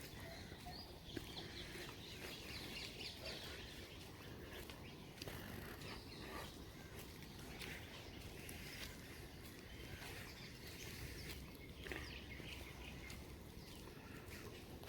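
Birds chirping faintly and intermittently over a steady low background hiss.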